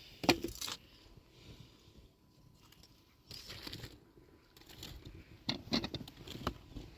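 Scattered sharp clicks and knocks of small hard objects being handled: two near the start, a short rustle midway, then a quick cluster of clinks and knocks.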